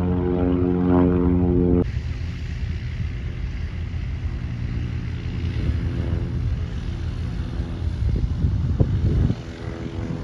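Small propeller airplane's engine running at high power, with a strong droning tone. About two seconds in the sound cuts abruptly to a broader, duller rumble, and the engine's droning tone comes back shortly before the end.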